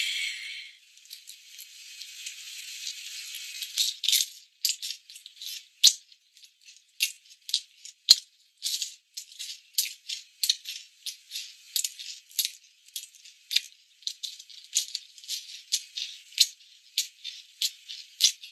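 Chewing crispy pan-fried steamed-bun (mantou) cubes: a long irregular run of short, sharp crunches, two or three a second.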